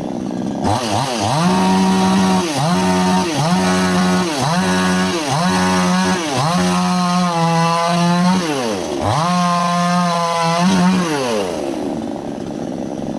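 Two-stroke chainsaw cutting wood at high revs, its engine pitch dropping sharply and climbing back again about once a second, then holding steady for longer stretches before falling away near the end.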